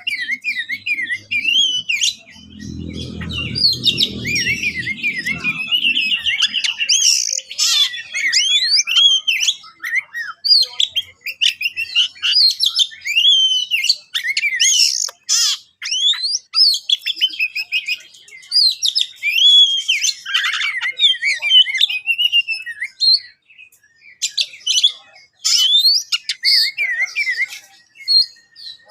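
Oriental magpie-robin in agitated, territorial fighting song: a long run of rapid, varied whistles, chirps and harsh notes broken by short pauses. A faint low rumble sits underneath between about two and six seconds in.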